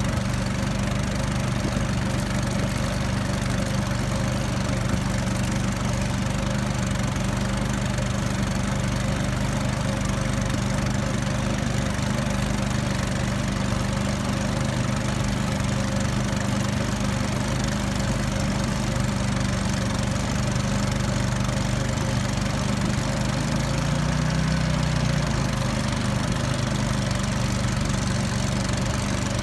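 The small motor driving a river raft runs steadily, with a brief wavering in its pitch about three-quarters of the way through.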